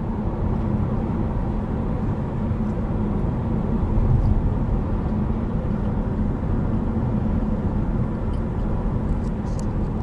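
Steady road noise of a car driving along the highway, heard from inside the car: a low, even rumble of tyres and engine.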